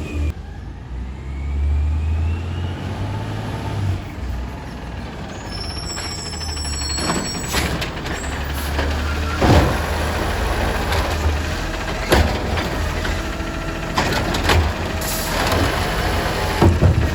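Recycling garbage truck running with a steady low engine rumble, punctuated by several sharp knocks and clanks a couple of seconds apart, with a brief high whine or squeal about six seconds in.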